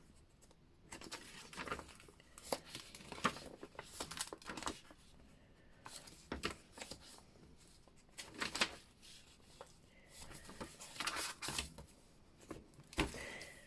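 Paper and card rustling and sliding as tags and cards are handled in a thick handmade paper journal, in irregular short rustles with a few sharper taps.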